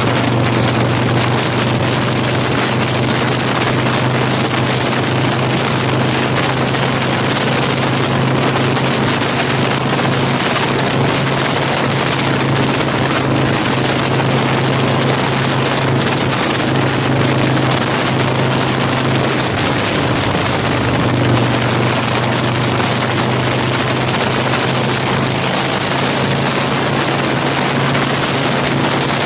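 Big Dog K9 chopper's V-twin engine running steadily at highway speed, heard from a camera mounted on the bike, under heavy wind rush across the microphone. The engine note dips briefly about two-thirds of the way through.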